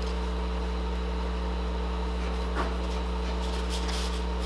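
Steady low electrical hum with a faint constant tone, under a few faint soft crackles about two-thirds of the way in.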